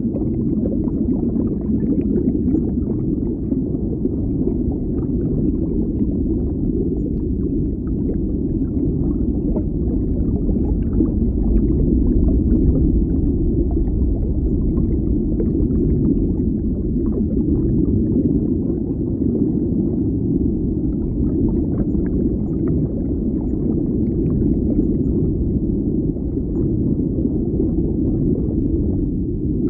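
Underwater ambience: a steady, dense low rumble of moving water with faint scattered crackles over it.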